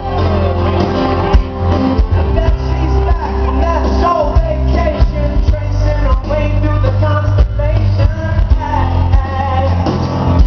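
Rock band playing live through a PA: a singer's voice over steady bass and drums.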